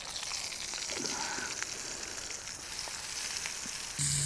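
Mushrooms and steak sizzling over an open campfire: a steady hiss with small crackles, which gets louder just before the end.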